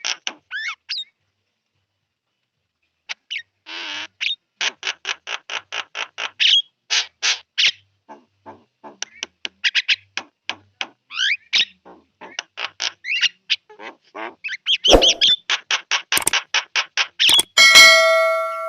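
Javan myna chattering in a rapid run of short, harsh calls, about three to four a second, after a two-second pause near the start. Near the end the calls grow denser and louder, with one held whistled note.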